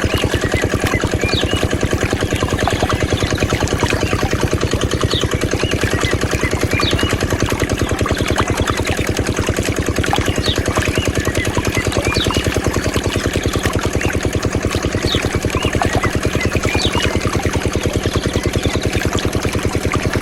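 Mini diesel engine driving a water pump, running steadily at constant speed with an even rapid beat of firing strokes.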